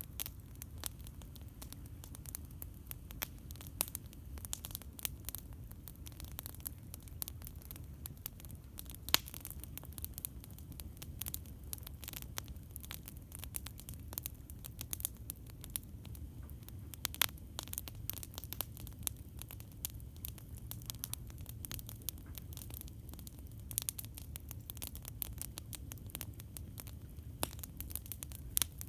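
Campfire wood burning, with irregular sharp crackles and pops throughout and a few louder pops, about nine and seventeen seconds in. A steady low rumble runs underneath.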